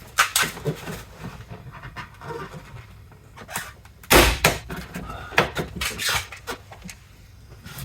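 Plastic tailgate trim panel being pulled down by its edge: a string of sharp clicks and knocks as its clips and edges give and shift. The loudest knock comes about four seconds in, with softer rubbing between.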